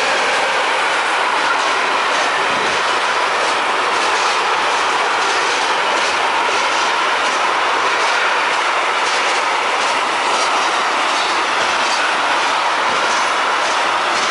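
Long electric-hauled intermodal freight train of pocket wagons carrying lorry semi-trailers and containers rolling past close by: a steady loud rumble of steel wheels on rail, with repeated clicks as the wheelsets pass over rail joints.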